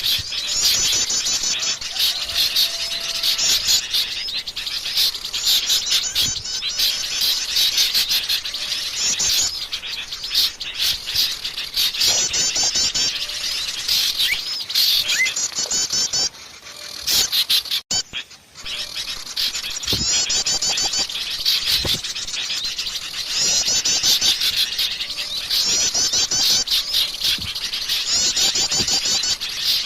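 Busy chorus of many small songbirds chirping and trilling over one another, played as a bird-lure call recording. It is made of rapid trilled phrases about a second long, repeated almost without pause, with a brief drop in level a little past the middle.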